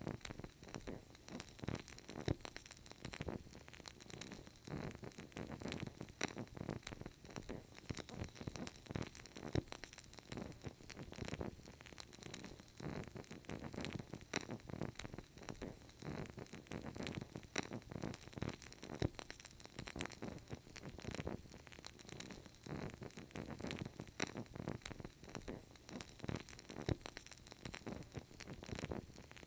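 Burning candle crackling: small irregular crackles and pops from the wick over a soft hiss.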